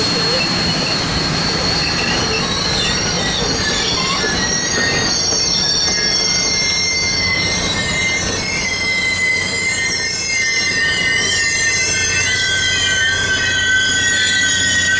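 Train of Union Pacific passenger cars behind steam locomotive 844 rolling past close by, with a steady rumble of wheels on rail. Several high, wavering wheel squeals sound over the rumble and grow stronger in the second half.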